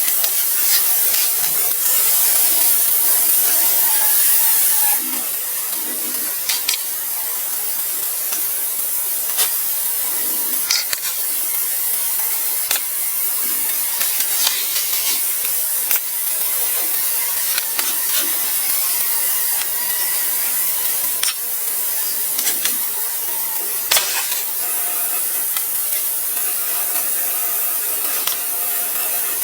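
A steady high hiss, louder for the first few seconds, with scattered sharp clicks and knocks throughout.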